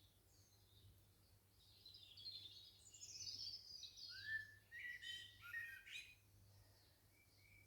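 Wild birds singing faintly: a quick warbling phrase about two seconds in, followed by a few sharp chirps.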